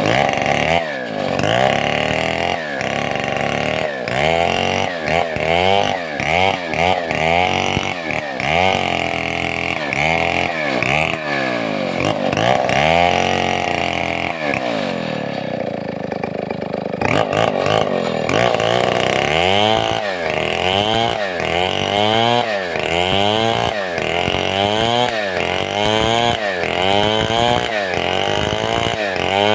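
Large two-stroke Stihl 070-type chainsaw running under load as it rips a log lengthwise into boards. The engine pitch rises and falls again and again as it works through the cut, with a steadier, duller stretch about halfway through.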